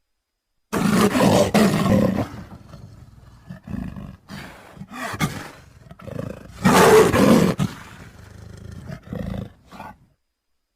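Sri Lankan leopard roaring: two loud calls about six seconds apart, with quieter grunts between and after them.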